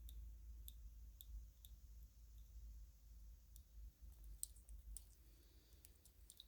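Faint, irregular small clicks and taps of plastic string-light bulbs and cord being handled, over a low rumble.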